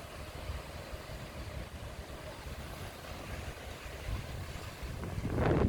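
Wind buffeting the microphone as a low, uneven rumble, with a louder rush building near the end.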